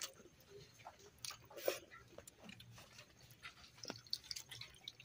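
Close-up eating by hand: chewing and lip-smacking with irregular small wet clicks, one of them louder about a second and a half in.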